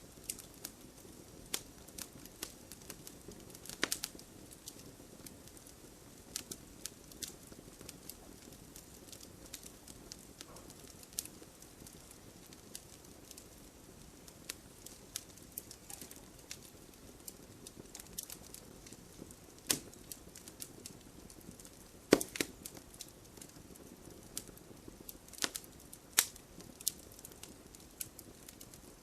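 Wood fire burning in a fireplace: irregular crackles and pops of burning logs over a soft steady hiss of flames, with a few louder pops scattered through it.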